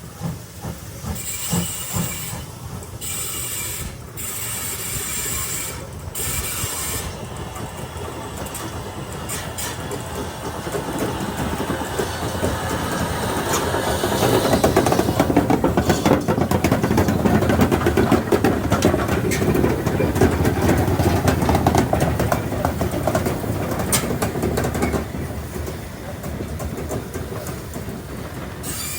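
Steam-hauled train rolling through the station, its wheels clicking over the rail joints, growing louder toward the middle as the coaches pass and then easing off. In the first few seconds there are short bursts of high hissing.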